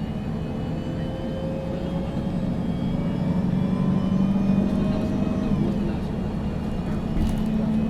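A MAN NG 313 CNG articulated bus's natural-gas engine, heard from inside the bus, getting louder and rising in pitch as it accelerates. The pitch falls back after about five seconds and the engine then runs on steadily, with a short knock near the end.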